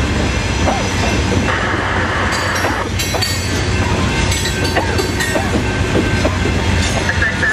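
Freight train of CSX open-top hopper cars rolling steadily past: a continuous rumble of steel wheels on the rails with clickety-clack and metallic clatter.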